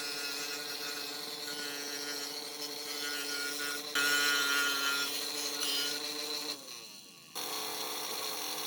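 A motor-driven tool running with a steady whine, breaking off briefly about seven seconds in and then starting again.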